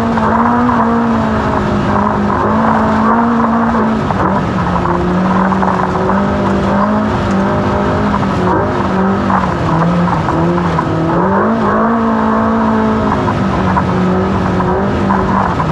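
Off-road race car engine held at high, steady revs, its pitch dipping and recovering a few times, over a loud rushing noise.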